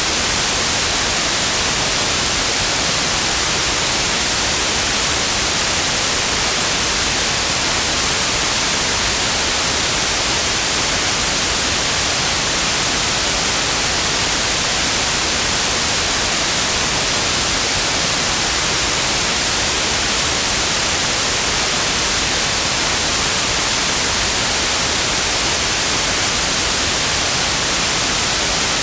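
Synthetic white noise: a steady, even hiss, brightest in the high frequencies, with no change throughout.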